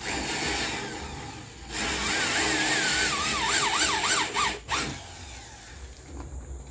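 Handheld power drill running in spurts: a shorter run, then a longer, louder one from about two seconds in whose motor whine wavers in pitch as it works, stopping abruptly, then a brief final blip.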